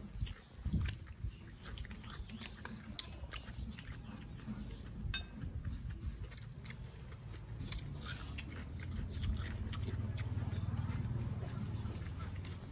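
People chewing food, with scattered light clicks of spoons and forks against ceramic plates and bowls. A low rumble underneath grows louder in the second half.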